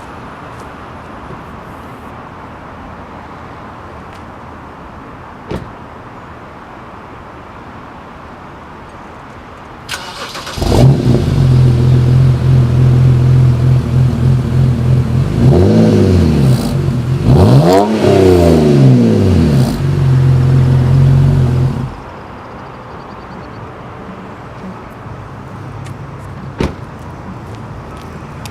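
2010 BMW 328i E90's straight-six with a muffler delete (muffler cut out and replaced by a straight pipe): started about ten seconds in, idling loudly, revved lightly twice, then switched off.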